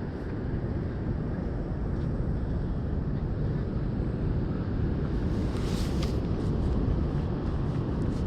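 Steady low rumbling noise, like wind buffeting the microphone, with a brief hiss about six seconds in.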